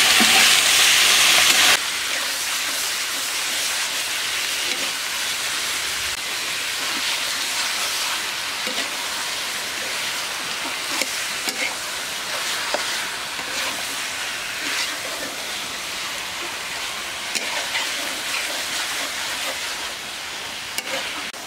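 Chicken pieces sizzling in hot oil and spice paste in a black iron kadai, stirred with a metal spatula that clicks and scrapes against the pan. The sizzle is loud for the first couple of seconds, then drops suddenly to a softer, steady hiss.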